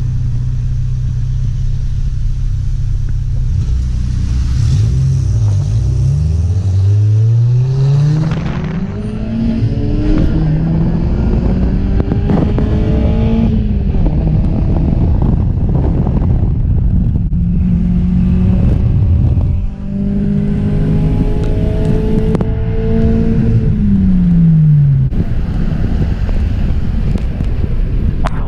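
Car engine running steadily low, then revved hard from about six seconds in, its pitch climbing and held high with several rises and dips before falling away near the end.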